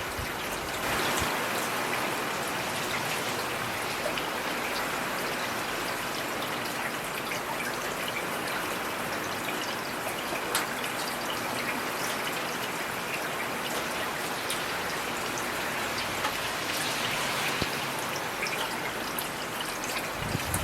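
Heavy rain falling steadily: a dense, even hiss dotted with the sharp ticks of individual drops landing close by.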